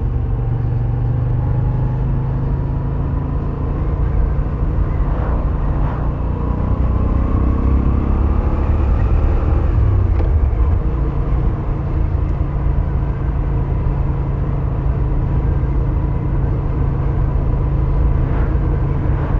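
Moto Guzzi V7 850's air-cooled transverse V-twin running under way on stock exhaust, a steady low rumble mixed with wind noise, its note rising and falling a few times around the middle.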